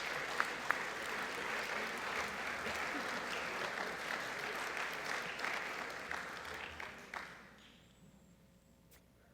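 Audience applauding, a dense steady clapping that tapers off about seven seconds in and dies away.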